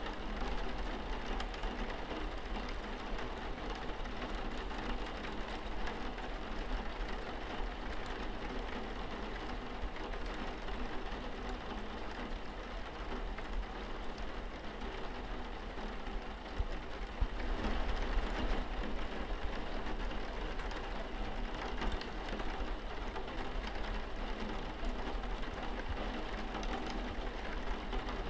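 Steady rain pattering on a window pane, an even dense patter that grows a little heavier about seventeen seconds in.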